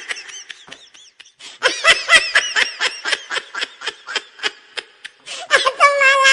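A high-pitched comic laughing sound effect: a quick run of short laughing syllables, about four or five a second, ending in a longer held note near the end.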